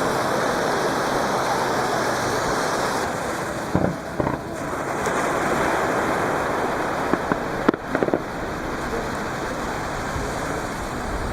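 Surf washing steadily on the beach, with fireworks shells going bang over it: one crack about four seconds in, then a quick run of several cracks around seven to eight seconds.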